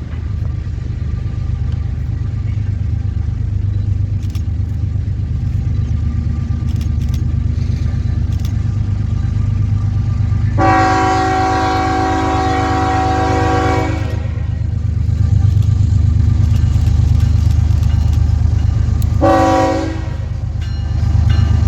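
Freight train's diesel locomotives rumbling steadily past, with a long air-horn blast, a chord of several pitches, about halfway through and a short blast near the end.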